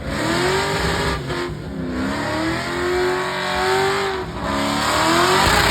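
Truck engine revving hard in repeated surges, its pitch climbing, dipping and climbing again, over a steady hiss of noise.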